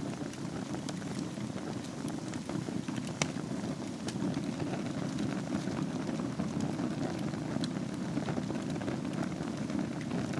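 Wood fire burning in a fireplace: a steady low rush of flames with scattered crackles and small pops, one sharper pop about three seconds in.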